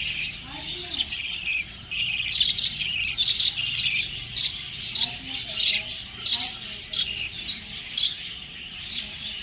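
Pet budgerigars chirping and chattering, a busy run of short, quick high chirps with no pause.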